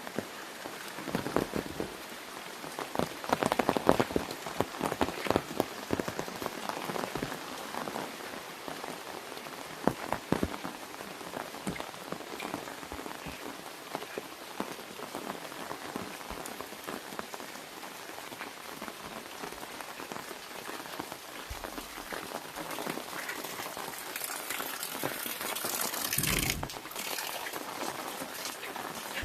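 Rain drumming on an umbrella overhead, a dense patter of individual drops, heavier in the first few seconds, with a brief louder rush a few seconds before the end.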